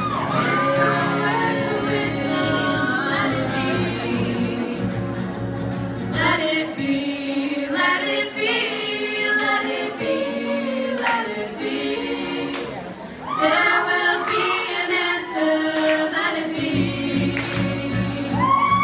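Group of women singing together in parts, choir-style. The low supporting parts drop out about six seconds in, leaving the higher voices, and come back in near the end.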